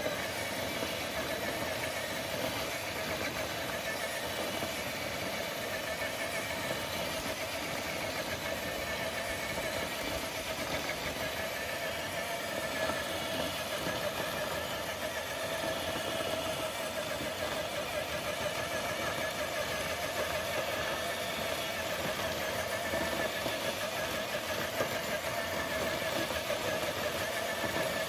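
Traxxas TRX4 High Trail RC crawler's electric motor and geartrain whining steadily as the truck pulls a dead-weight sled.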